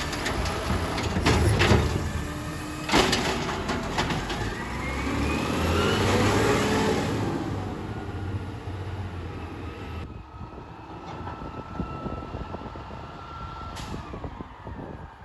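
Garbage truck engine running with clanks and knocks from the lift and body, and a whine rising as the engine revs about five seconds in. About ten seconds in it changes abruptly to a quieter truck engine with a thin steady whine.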